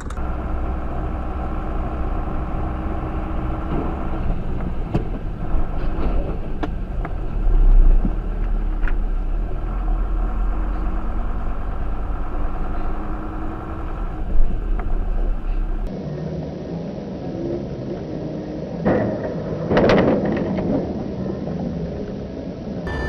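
Car engine and road rumble heard from inside a moving car, steady and low, with scattered clicks. After a cut to another recording, there are a few loud knocks and a short burst of noise a few seconds before the end.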